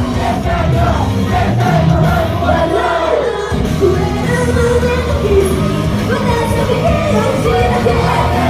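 Live K-pop idol stage performance: a loud pop backing track with a steady beat and a singing voice, and fans in the crowd shouting along. The bass drops out for about half a second around three seconds in, then comes back.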